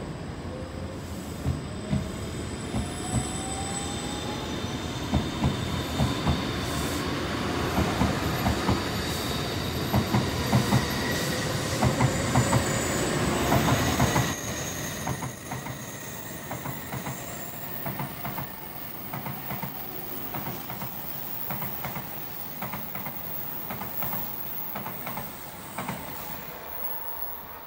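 N700S Shinkansen train pulling away from the station and gathering speed: a whine rising in pitch over the first few seconds, over rolling noise and sharp clicks from the wheels. It is loudest about halfway through, then quieter, with wheel clicks about once a second.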